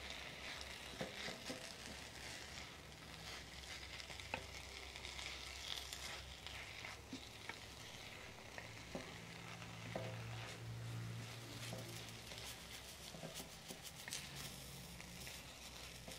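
Chopped poblano strips, tomato and melting cheese sizzling in hot oil in an enamel frying pan, with a wooden spoon scraping and clicking against the pan as it is stirred.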